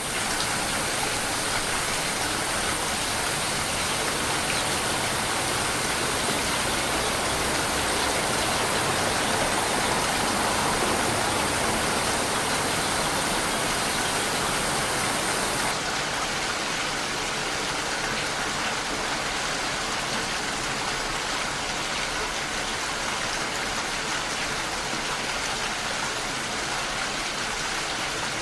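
Steady rain, an even continuous hiss of falling water; the highest part of the hiss drops away a little past halfway.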